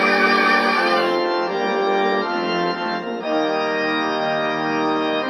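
Instrumental music: sustained organ-like keyboard chords, held and changing about a second in and again about three seconds in.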